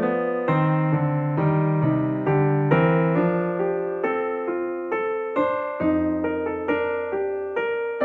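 Background piano music: a simple melody of plucked-sounding keyboard notes over a bass line, each note struck and decaying.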